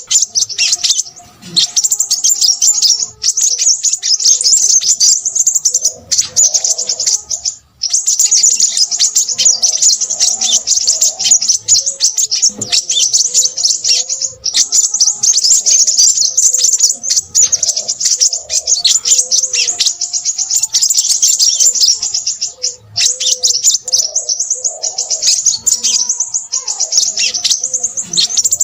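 Crimson sunbird singing busily: a dense stream of rapid, high-pitched twittering and chips, broken by a few short pauses.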